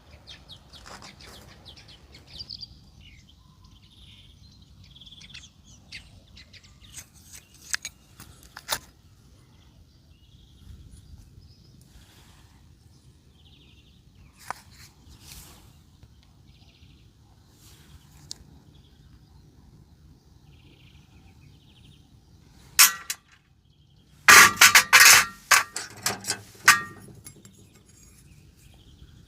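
Metal tools and parts clinking and clattering during hands-on scooter repair work: scattered light clicks, then a loud single clank and a second burst of ringing metallic strikes near the end. Birds chirp faintly in the background.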